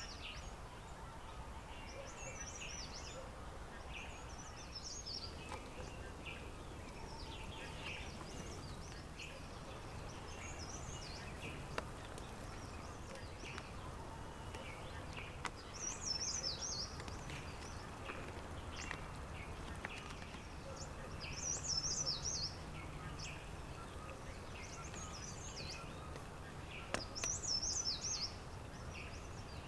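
Wild birds singing: short, high, twittering phrases repeat every few seconds, loudest three times in the second half, over a steady low background hum of outdoor ambience.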